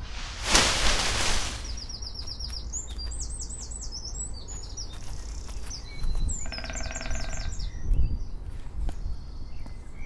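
Birdsong: a songbird chirping in quick runs of repeated rising notes, twice, over a low steady forest rumble. A short rustling whoosh comes about half a second in, and a brief buzzy tone sounds under the second run of chirps.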